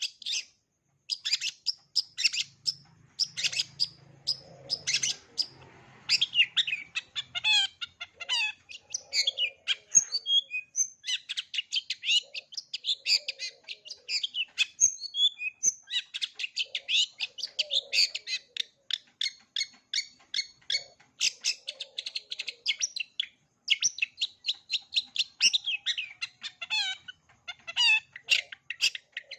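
Long-tailed shrike (cendet) singing a dense, fast chattering song of rapid short chirps and trills, packed with mimicked calls of other birds, broken by a few brief pauses.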